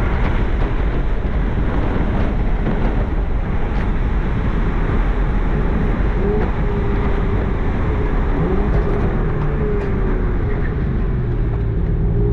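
Porsche 996 Carrera 4S's flat-six with factory sport exhaust, heard from inside the car while driving, under steady wind and road noise. Near the end the engine note rises as the car accelerates.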